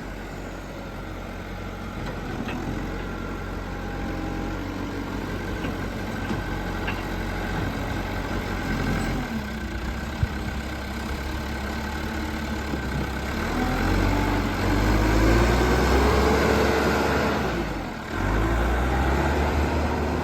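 JCB 214 Series 2 backhoe's diesel engine running, its note rising and getting louder about two-thirds of the way through, dropping briefly near the end, then picking up again. One sharp click near the middle.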